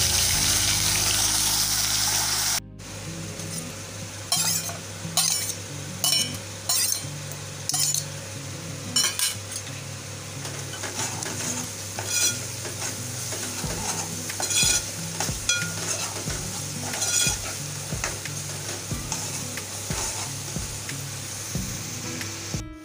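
Wet ground masala paste frying in hot oil with mustard seeds and cumin: a loud sizzle that drops off suddenly after about two and a half seconds. It then carries on as a quieter frying hiss while a steel ladle stirs and scrapes the pot, clinking against it about once a second.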